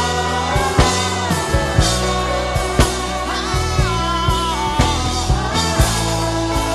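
Worship music: a man's hummed melody glides up and down over sustained bass notes and a steady drum beat.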